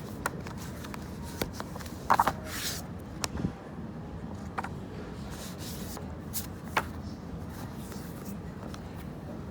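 Coffee shop background noise: a steady low hum with scattered small clicks and knocks, the loudest a quick cluster of knocks about two seconds in.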